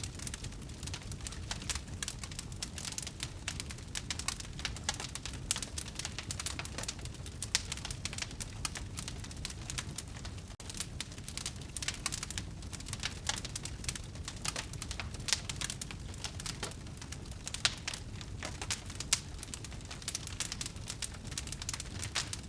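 Wood fire burning in a fireplace: a constant patter of small crackles and pops over a low steady rumble of flame, with a few louder pops.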